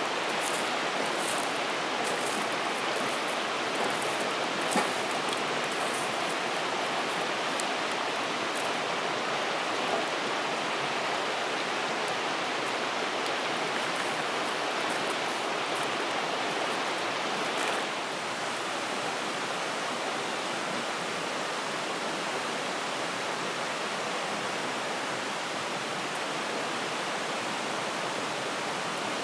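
Steady rush of flowing water, with a few light clicks and one small knock in the first ten seconds.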